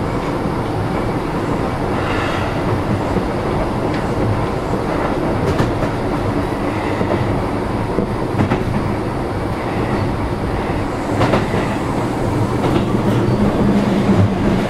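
Keio 7000 series electric train heard from inside a passenger car while running at speed: a steady rumble of wheels on rail broken by scattered clicks from rail joints. A low hum grows louder near the end.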